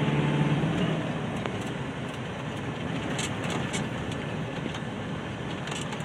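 Car driving on a dirt road. A steady engine tone stands out for about the first second, then eases into a steady rumble of tyres on the unpaved surface, with a few light clicks and rattles.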